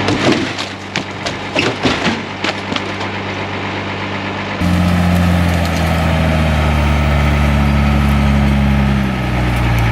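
Branches cracking and snapping against a Unimog truck as its diesel engine runs, a quick string of sharp cracks over the first few seconds. About halfway through the sound changes abruptly to the engine's steady, louder drone, its pitch shifting slightly near the end.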